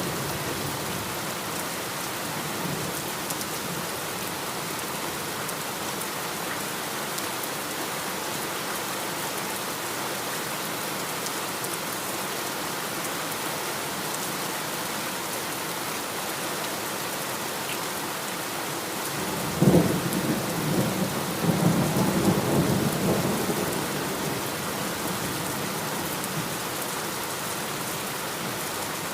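Steady heavy rain falling, with a sudden thunderclap about two-thirds of the way through that rumbles on for about four seconds before dying back into the rain.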